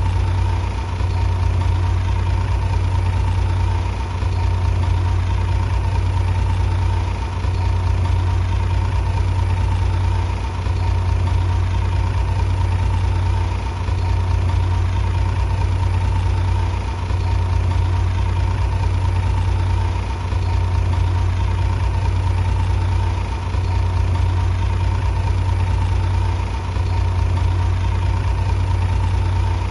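Bulldozer diesel engine running steadily with a deep, even drone. Its loudness dips briefly about every three seconds.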